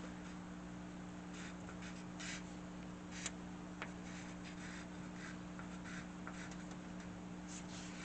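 Drawing strokes scratching on paper: short, intermittent scrapes with a couple of small ticks, over a faint steady hum.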